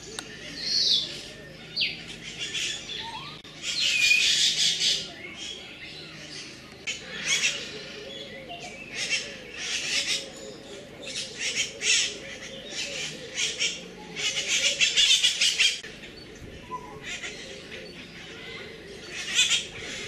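Birds squawking and calling over and over in short, harsh bursts, with a few whistled notes near the start.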